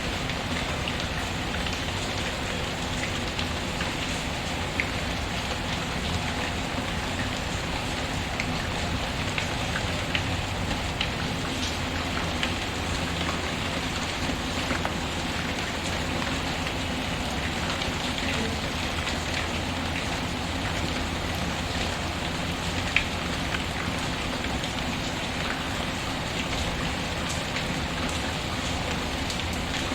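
Steady rain pattering, mixed with a crackling fireplace whose scattered small pops tick through the noise; one sharper pop stands out about 23 seconds in.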